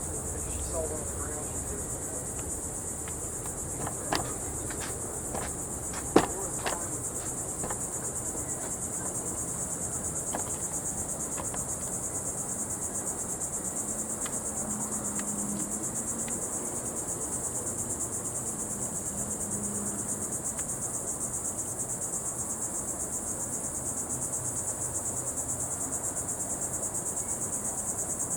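Steady high-pitched insect chorus, with a few sharp knocks about four and six seconds in, the second one the loudest.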